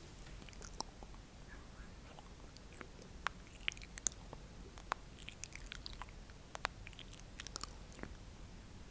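ASMR mouth sounds: irregular soft wet clicks and pops, a few to the second.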